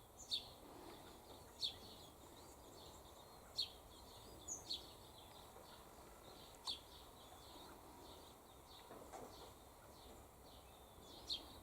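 Faint bird chirping: about seven short, high single chirps, a second or a few seconds apart, over a quiet background.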